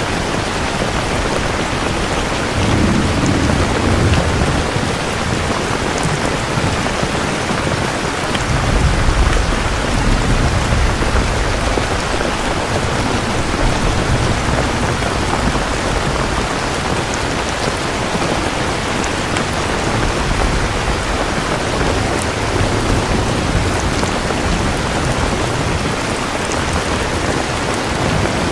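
Steady heavy rain with low rolls of thunder rumbling, one swelling about three seconds in and a longer one from about eight seconds.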